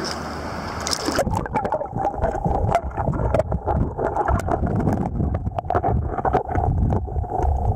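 Swift river current rushing, heard with the microphone underwater: a muffled steady rush with many sharp clicks and knocks scattered through it. About a second in, the treble drops away as the sound turns muffled.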